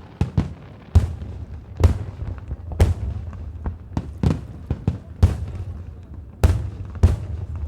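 Fireworks display: aerial shells bursting in an irregular string of loud bangs, about one a second, each with a rumbling echo tail, with smaller pops between.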